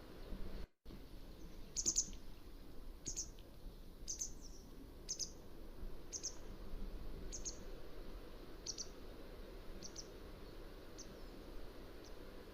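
Mountain wagtail calling: a series of about ten short, high, sharp notes roughly one a second, growing fainter toward the end, over a steady low background hiss. The sound cuts out completely for an instant just under a second in.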